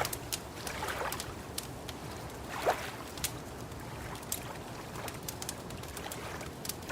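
Wood fire crackling, with frequent sharp pops and snaps. Underneath it, gentle lapping and sloshing of lake water comes every second or two, the strongest swell nearly three seconds in.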